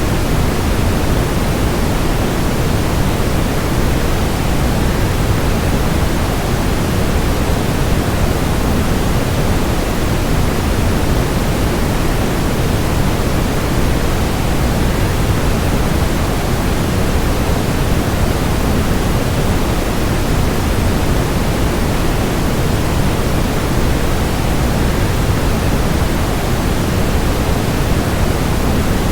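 Waterfall: a steady, unbroken rush of falling water, heaviest in the low end and even throughout.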